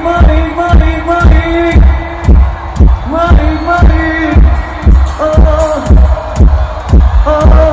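Live rock band playing loud amplified music, a heavy kick drum pounding a steady beat under a held melody whose notes slide up into each phrase.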